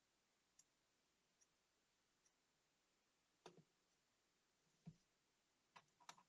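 Faint clicks and taps of small parts and hand tools being handled at a workbench. There are three light ticks in the first half, then sharper clicks and a duller knock about five seconds in, with a quick run of clicks near the end.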